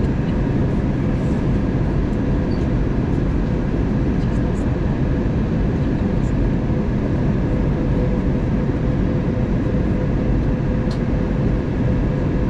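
Steady cabin noise inside an Airbus A320neo during descent: a constant rush of airflow and engine hum with a faint steady tone running through it.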